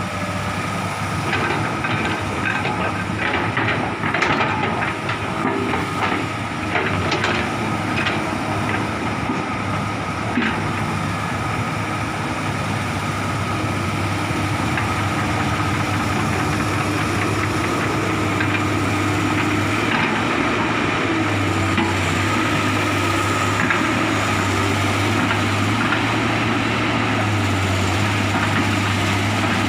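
Komatsu excavator's diesel engine running steadily, with sharp cracks and snaps scattered through roughly the first ten seconds. The engine note shifts up and down in the second half.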